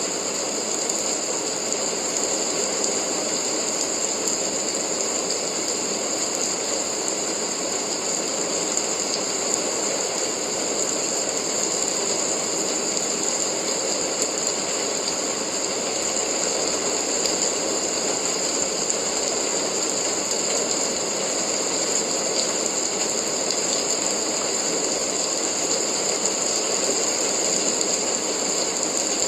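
Steady rain, an even hiss of many drops that holds without a break.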